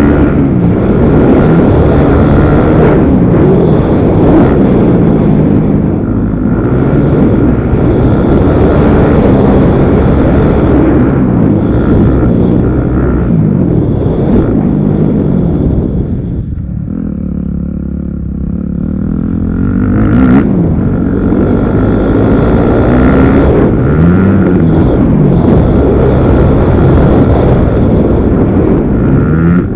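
Several motocross bikes' engines revving, their pitch rising and falling and overlapping as they ride. The engines fade back for a few seconds about two-thirds through, then come up loud again.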